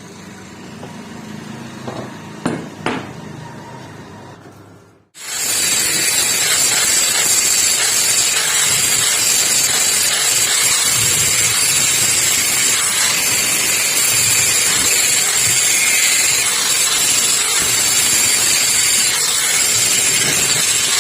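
Two sharp metal knocks, then, after an abrupt change about five seconds in, an electric grinder running steadily on the rusty hammer's metal: a loud hiss with a high whine.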